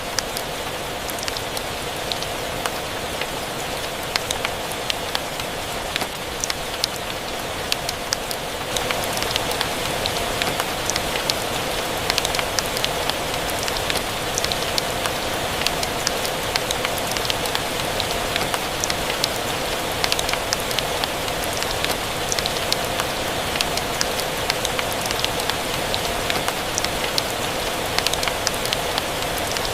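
Steady rain mixed with a crackling log fire: an even hiss of rain dotted with frequent small sharp crackles, getting slightly louder about nine seconds in.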